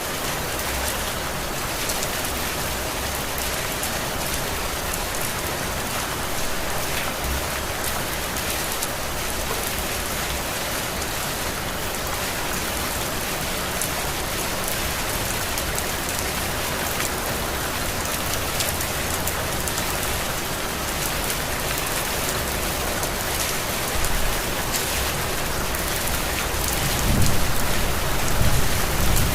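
Heavy rain falling steadily, with many individual drops pattering close by. A low rumble swells up near the end.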